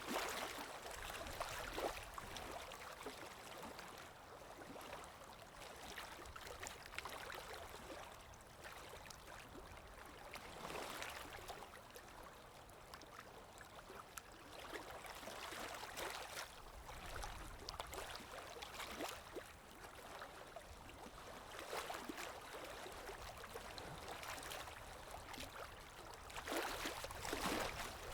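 Underwater ambience: muffled water moving and bubbling, swelling and fading every few seconds over a low rumble.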